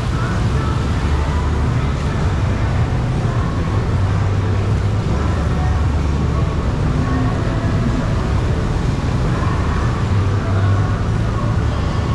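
Jet ski engine running steadily under way, its low note shifting slightly up and down, with a constant rushing noise over it.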